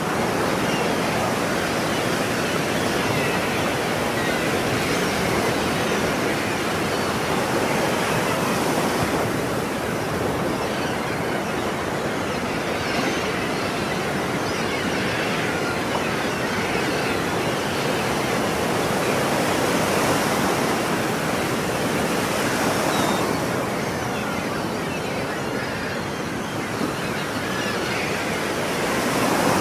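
Ocean surf: waves washing and breaking in a continuous rush that swells and eases every several seconds.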